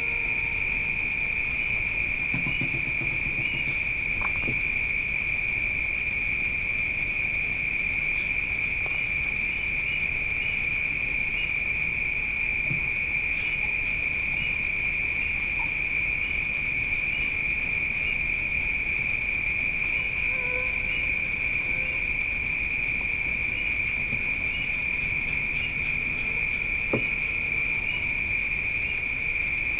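Crickets and other night insects trilling in a steady high chorus, with a fainter chirp repeating about once a second.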